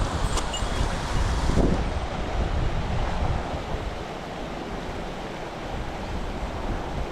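Steady rush of river water with wind buffeting the microphone, the gusts heaviest in the first few seconds and then easing.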